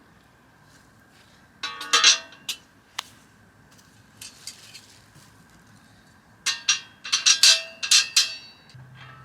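Hard metal items clinking and clattering together, with short ringing tones, in two bursts of handling: camp cookware or gear being moved about.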